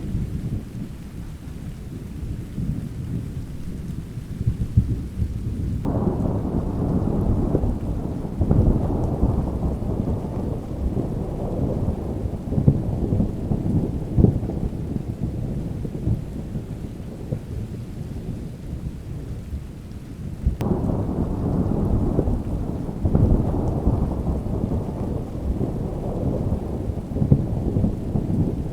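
Rolling thunder over steady rain. Two long peals break in, one about six seconds in and another about twenty seconds in, each rumbling on for several seconds before dying back to the low background rumble.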